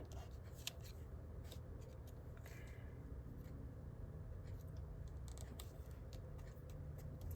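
Faint scattered clicks and rustles of cardstock pieces being handled and pressed together on a craft table, over a steady low room hum.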